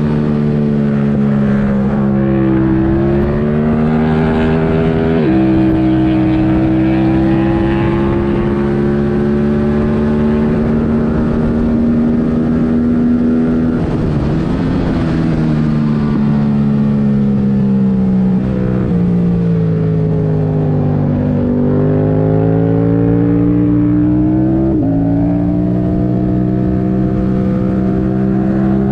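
2022 Yamaha R7's 689 cc parallel-twin engine, running with its airbox removed through a MIVV Delta Race exhaust, pulling hard with the revs climbing and dropping sharply at upshifts about 5 seconds in and again near the end. In between, the revs fall off for a while as the bike slows, then build up again.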